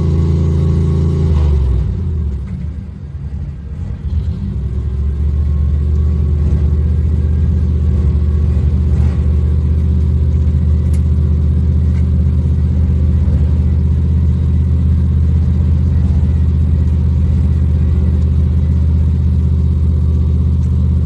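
Off-road vehicle's engine running at low revs. Its note shifts and dips briefly about two seconds in, then settles into a steady low drone.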